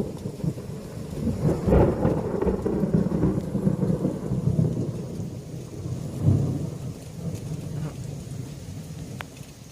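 Thunder from nearby lightning strikes rolling and rumbling. It swells loudest about two seconds in, swells again around six seconds, then dies away.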